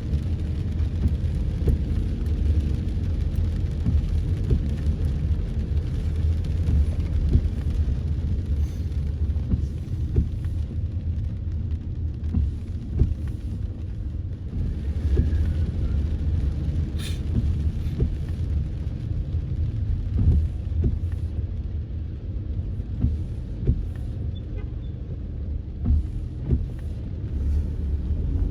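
Car driving through heavy rain, heard from inside: a steady low rumble of the car and road, with scattered sharp ticks and taps throughout.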